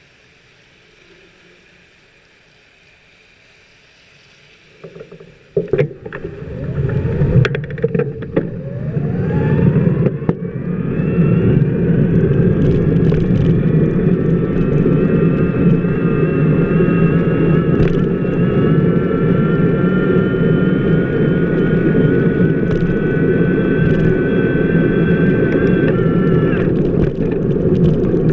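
Bicycle wheel, filmed from a camera on its hub, starting to roll: the rumble and hiss of the tyre on wet pavement come in loud after about five seconds of near quiet. A whine rises in pitch as the wheel gathers speed, holds steady, and stops shortly before the end.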